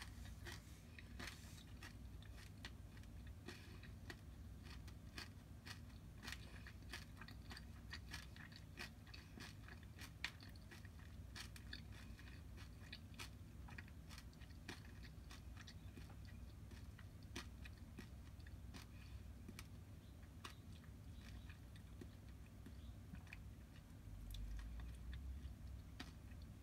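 Faint close-miked chewing and crisp crunching of fried horse mackerel in sweet-vinegar sauce, its small bones eaten along with it. The crunches come thick and fast in the first half and thin out later, over a low steady hum, with a brief low rumble near the end.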